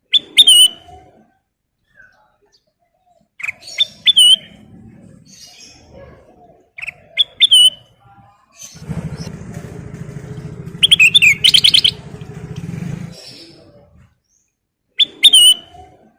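Kutilang emas, a bulbul, singing in short bursts of bright chirped phrases, with a fast run of rapidly repeated notes about eleven seconds in. A low droning hum runs underneath from about nine to thirteen seconds.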